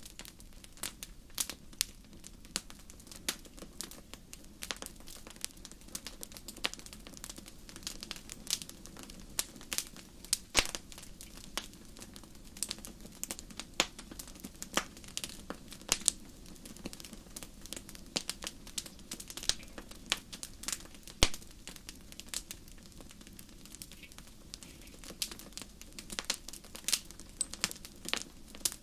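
Wood fire crackling in a fireplace: a continuous scatter of irregular sharp pops and snaps over a soft low rumble of the flames.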